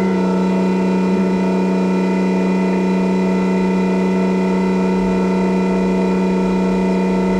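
Tractor engine running steadily at constant speed through a new chrome straight-pipe exhaust stack, a loud, even drone with no change in pitch.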